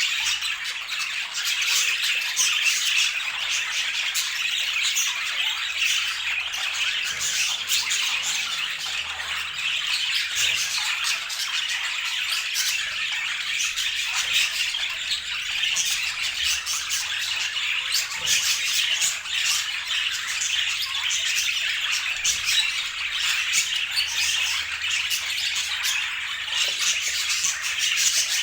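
Budgerigars chirping and chattering without a break, a dense stream of quick high chirps and clicks.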